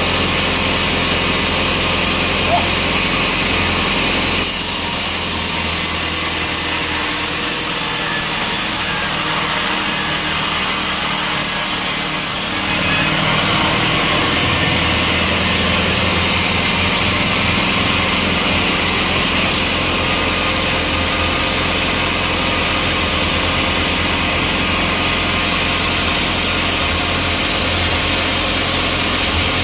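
Sawmill saw machinery running steadily while cutting a log, an engine hum under a hissing saw noise. About four and a half seconds in, the high hiss gets louder.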